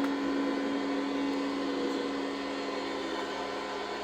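Arena goal horn holding one steady low tone over a crowd cheering, slowly dying down: the celebration of a goal just scored.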